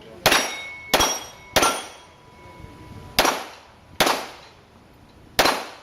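Six pistol shots: three in quick succession about two-thirds of a second apart, then three more spaced about a second apart. Steel plates ring briefly after the first three shots as they are hit.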